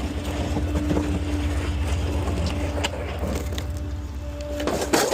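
Small rear-loader garbage truck running with a steady low rumble and a constant hum, with light rattles and a loud clattering knock near the end.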